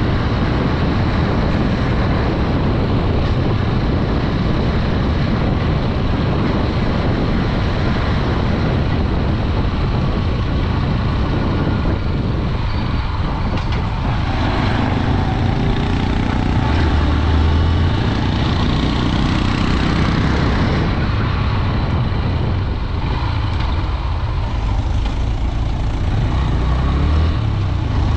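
Honda Dream 110 motorcycle riding along a road, its small single-cylinder four-stroke engine running steadily under heavy wind noise on the microphone.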